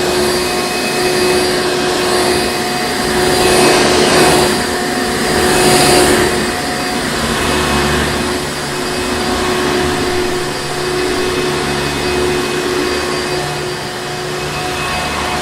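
Hoover Encore Supreme upright vacuum cleaner running continuously, a steady motor hum under a rush of airflow noise that swells slightly a couple of times.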